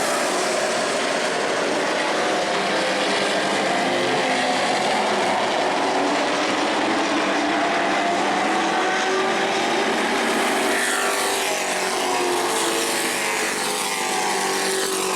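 Several racing trucks' engines running hard together in a pack, many pitches layered over each other. In the last few seconds some pitches slide down and up as trucks go past.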